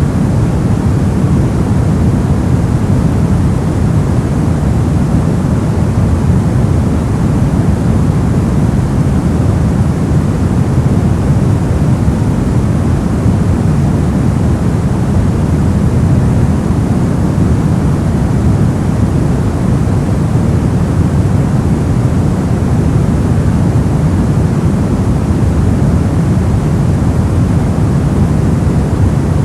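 Steady, unbroken generated white noise, loud and deep-toned, with most of its weight low down rather than in the hiss.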